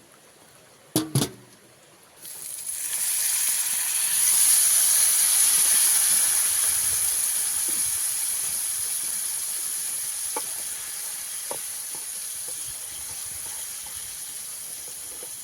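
Two sharp knocks, then a hot pan of sautéed spices starts sizzling loudly as something is added to it; the sizzle swells over a couple of seconds and then slowly dies down.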